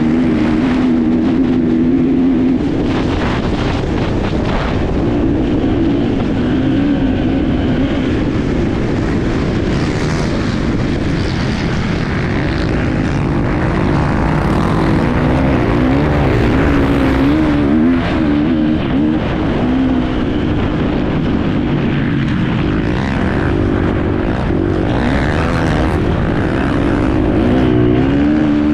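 Enduro motorcycle engine running hard on board, its pitch rising and falling with the throttle. A few short knocks come through around a few seconds in and again past the middle.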